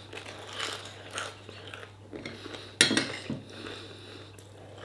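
A person chewing and biting crunchy food, with a few soft crunches and one sharp, loud crunch nearly three seconds in, over a faint steady low hum.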